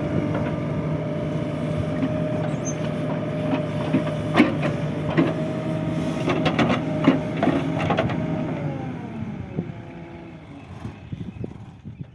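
Diesel engine of heavy earth-moving machinery running steadily, with several metallic knocks and clanks in the middle. Near the end the engine's pitch drops and the sound fades away.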